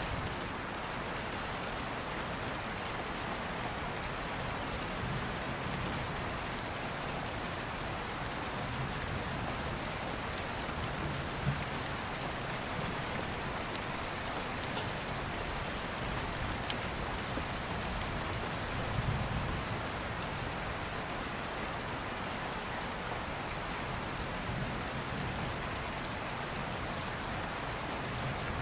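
Steady rain falling in an even hiss, with a few faint sharp ticks and low swells.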